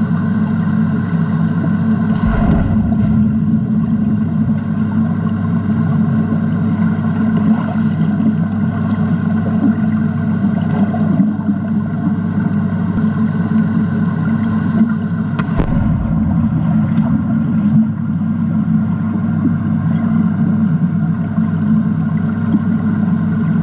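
Boat engine running at a steady speed, a loud, even drone that does not change in pitch, with two brief low thumps, one about two and a half seconds in and one about fifteen seconds in.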